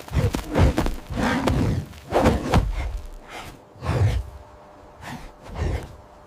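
Heavy thuds of large animals' paws pounding the ground at a run, in five or six irregular bursts, loudest in the first few seconds.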